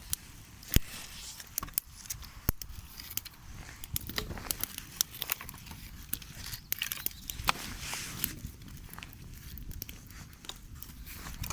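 Dry twigs and brush crackling and snapping at a small campfire: irregular sharp cracks, the loudest about a second in and another at about two and a half seconds.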